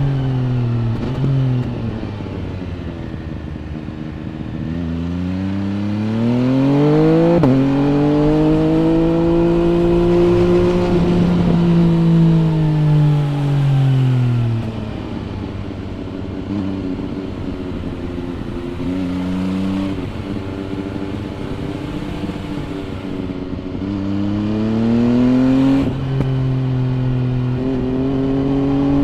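MV Agusta Brutale 800 RR's three-cylinder engine through an aftermarket three-outlet exhaust, heard from the bike. The engine slows over the first few seconds, then revs up hard with a gear change about seven seconds in. It holds high revs, falls away from about halfway, runs low and steady, and revs up again with another shift near the end.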